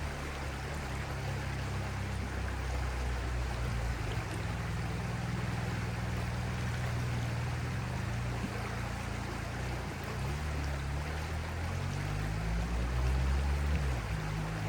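A stream flowing steadily with a continuous rushing babble, over a low hum whose pitch shifts now and then.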